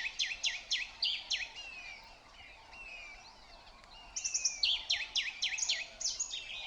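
A songbird singing two quick runs of sharply falling whistled notes, one at the start and another about four seconds in, with a few softer notes between, over faint natural background ambience.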